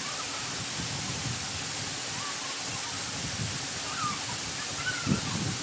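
Waterfall cascades rushing steadily, with a few faint short chirps over the top and a soft low thump near the end.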